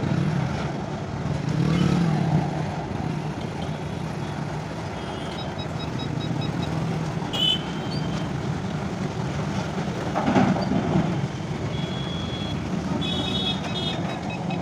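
A goods train's wagons rolling over a railway bridge in a steady low rumble. Several short runs of rapid electronic beeps sound over it in the second half.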